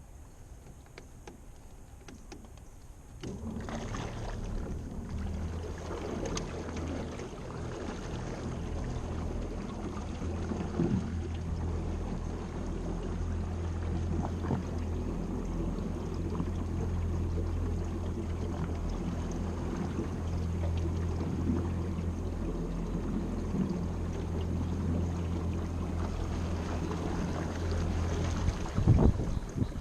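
Electric trolling motor on a small John boat switching on about three seconds in and running with a steady low hum, water swishing along the hull. A few knocks near the end.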